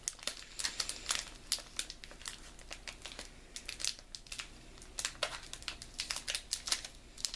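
Crinkling of a Milka chocolate bar wrapper as it is opened: a run of irregular crackles, busiest near the end.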